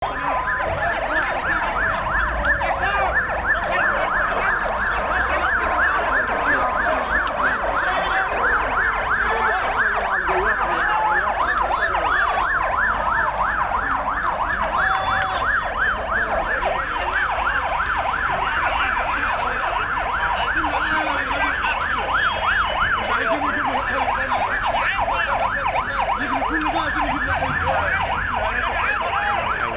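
Several emergency vehicle sirens sounding together: one cycling fast up and down in a yelp, with another slower wail gliding over it, above a low rumble of traffic.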